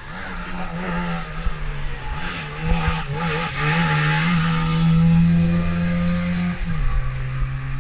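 Rally car engine revving hard through a serpentine bend, the revs rising and falling with a hiss of tyre noise mid-way. Near the end the engine note drops sharply as the revs fall.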